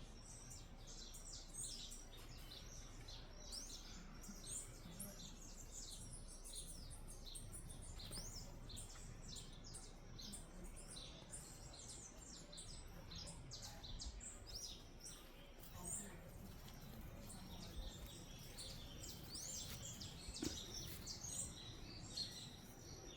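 Many small birds chirping at once, a steady chatter of short, overlapping high calls throughout.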